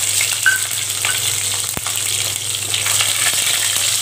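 Garlic cloves sizzling in hot sesame oil in a kadai with spluttered mustard seeds, pepper and fenugreek, stirred with a wooden spatula. There is a steady low hum underneath and one sharp click about halfway.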